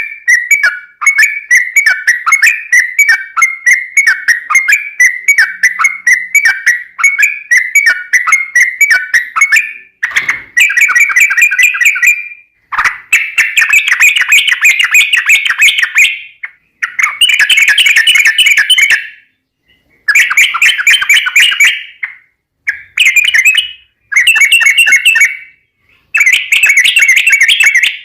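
Yellow-vented bulbul (trucukan) calls and song. Rapid, evenly repeated chirps, several a second, give way about ten seconds in to loud, bubbling chattering phrases of one to three seconds each, broken by short pauses.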